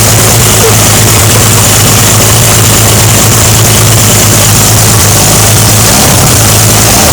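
GM 292 cu in (4.8-litre) inline-six engine running steadily at an even, unchanging speed shortly after a cold start. It is loud.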